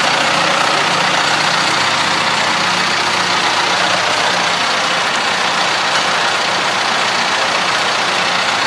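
Diesel engine of a farm machine running steadily at constant speed, with a dense mechanical noise over a low engine drone.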